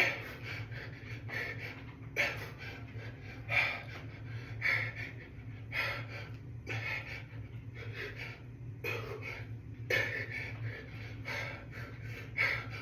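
A man breathing hard and panting from exertion, with short forceful exhalations about once a second in rhythm with dumbbell hammer curls. A steady low hum runs underneath.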